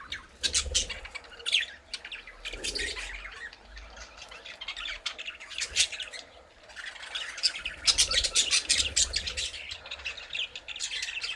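Budgerigars chattering: a busy run of rapid chirps, warbles and sharp squawks from several birds, easing off for a few seconds in the middle and picking up again.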